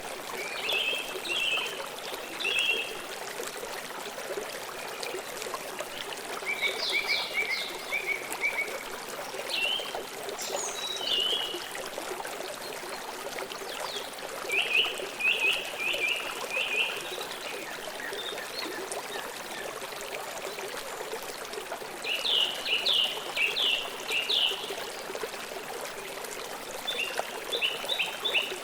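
Steady rush of flowing river water, with short bursts of rapid high chirping from birds every few seconds.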